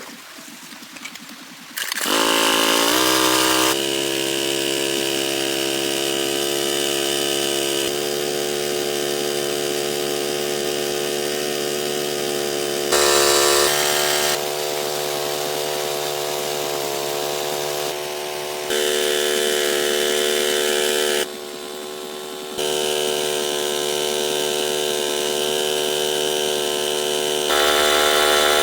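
A small motor running steadily at high speed, with its pitch and level jumping abruptly several times, as at cuts between shots.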